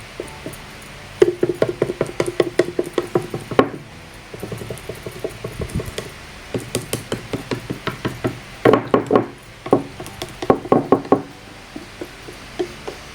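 Palette knife patting and dabbing quickly into wet acrylic-sealant texture paste on a board, in two runs of rapid soft taps.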